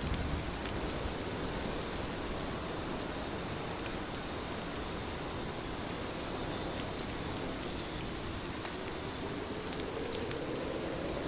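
Heavy rain falling steadily, with scattered ticks of single drops; a low rumble begins to swell near the end.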